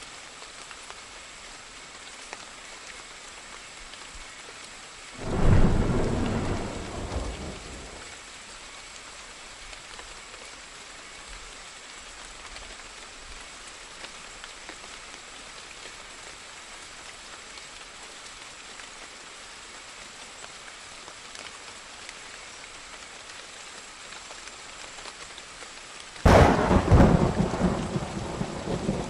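Steady rain with two thunderclaps: one about five seconds in that dies away over two or three seconds, and a second, sharper crack near the end that rumbles on.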